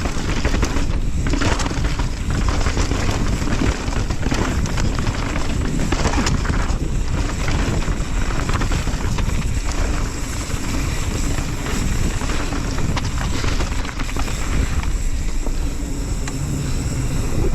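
Wind rushing over the microphone and a downhill mountain bike rattling over the trail: tyres on dirt with a steady stream of small knocks and clatter from the bike.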